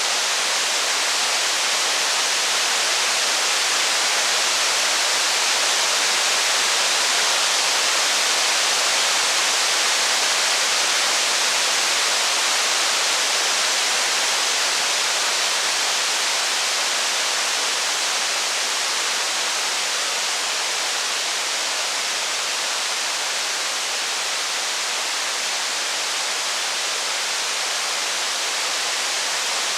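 Steady heavy rain, an even hiss that holds at one level throughout.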